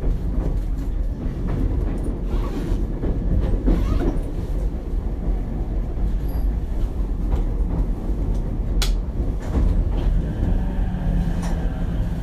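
Running sound of Ichibata Electric Railway car 7001, heard from inside the car: a steady rumble of wheels on rail, with one sharp click about nine seconds in.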